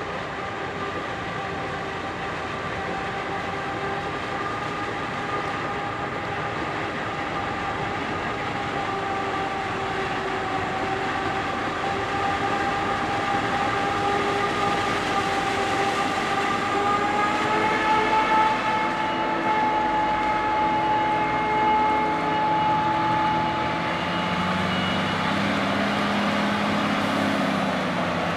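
Heavy machinery running steadily with a high whine and overtones, which rises a little in pitch about two-thirds of the way through.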